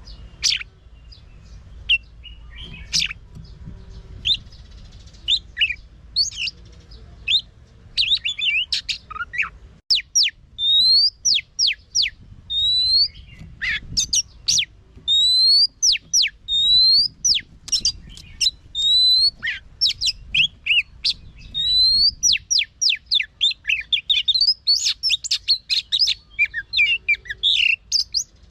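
Oriental magpie-robin singing: varied clear whistles and sharp notes, with a run of rising slurred whistles repeated about once a second through the middle, breaking into a fast jumbled warble near the end.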